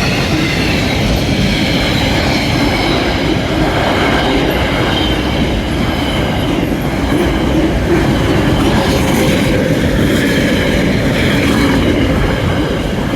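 Freight train hauled by a Class 66 diesel passing at close range, its wagons rumbling and clattering over the rails in a loud, steady run that eases off just after it ends.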